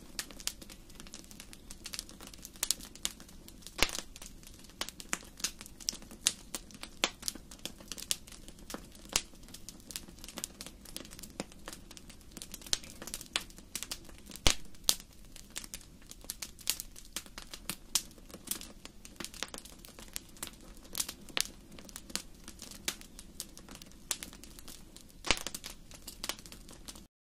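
Wood fire in a fireplace crackling: irregular sharp pops and snaps over a steady low rumble of the burning fire. The sound cuts off suddenly near the end.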